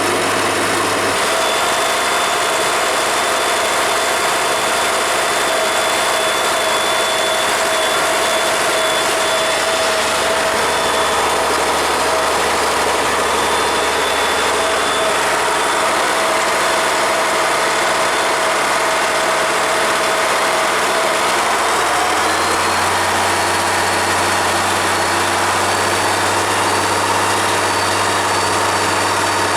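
1966 International Farmall 806 tractor engine running steadily with no load. Its note shifts about a second in and again about twenty seconds later.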